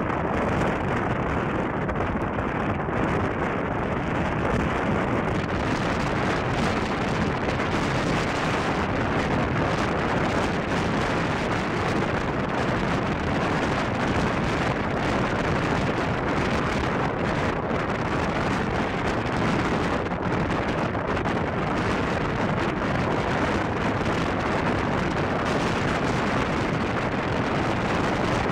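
Steady rush of wind buffeting the microphone at the open door of a fast-moving passenger train coach, mixed with the train's running noise; the hiss grows brighter about five seconds in.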